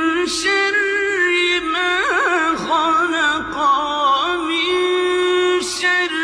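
Melodic Quran recitation (tajweed chanting) by a single voice, drawing out long held notes and decorating them with wavering ornaments.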